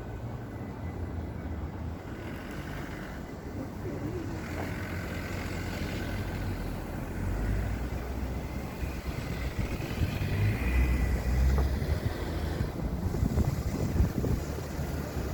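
A motor vehicle running with a low rumble that grows louder from about halfway through.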